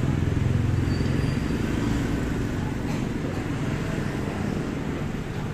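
Street traffic: a motor vehicle's engine passes close by, loudest in the first couple of seconds and then fading, over a steady traffic rumble.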